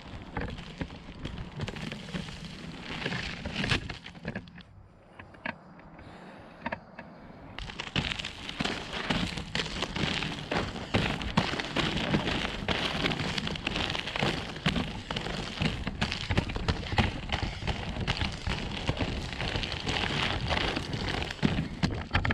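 Off-road inline skate wheels rolling over a dirt trail, a constant gritty crackle and crunch. It drops away for a few seconds about five seconds in, then comes back louder and denser.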